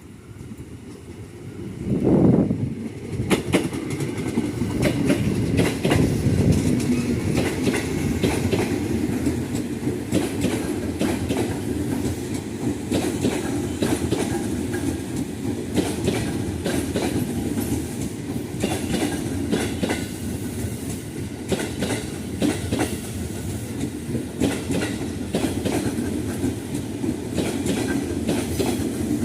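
A long train passing close by, with a steady rumble and the wheels clattering over the rail joints. It starts suddenly and loud about two seconds in, then runs on without a break.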